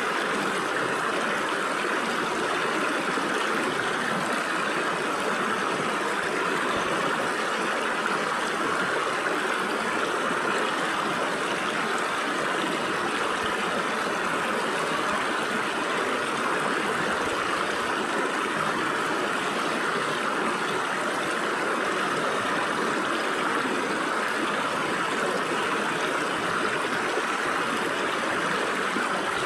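Stream water flowing and splashing through gaps between rocks, a steady even rush.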